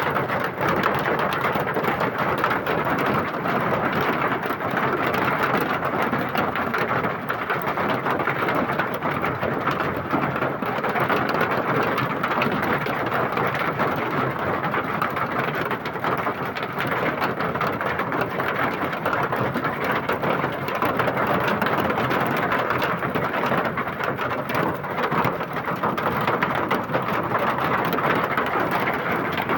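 Heavy downpour of rain mixed with hail, a dense steady clatter of drops and hailstones hitting surfaces that does not let up.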